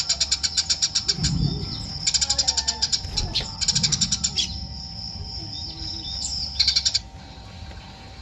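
A sparrow, the Eurasian tree sparrow known in Indonesia as burung gereja, chirping in fast runs of about ten chirps a second, several bursts with short gaps between them. A thin high note is held for a couple of seconds in the middle.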